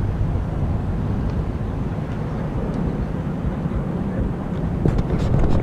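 Steady low rumble of distant vehicle engine noise, with faint voices near the end.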